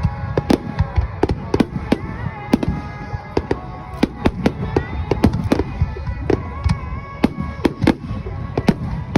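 Aerial fireworks going off in rapid, uneven succession: sharp bangs and crackles, about four or five a second, over a continuous low rumble of booms.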